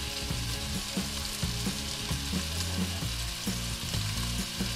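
Chicken pieces sizzling and frying in hot olive oil in a metal pot over a high flame, a steady hiss with short clicks now and then.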